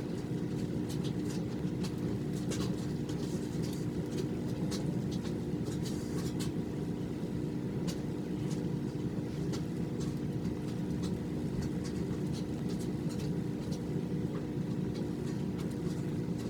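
Steady low background hum, with faint scattered soft ticks.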